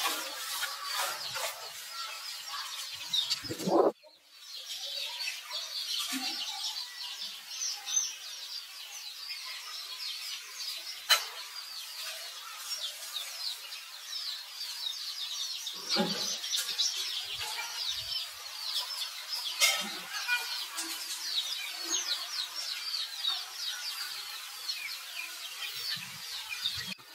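Many small birds chirping in quick, overlapping short notes, steady throughout. A short rising squeal comes about three and a half seconds in, and a single sharp click around eleven seconds.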